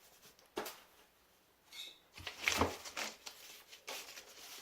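Short scrapes and taps of metal drywall knives working joint compound: a sharp tap about half a second in, then a run of scrapes about two and a half seconds in.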